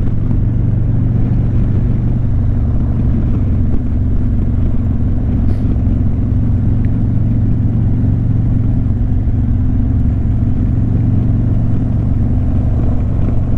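Motorcycle running at a steady cruising speed: a constant low engine hum with a steady rush of wind and road noise over it.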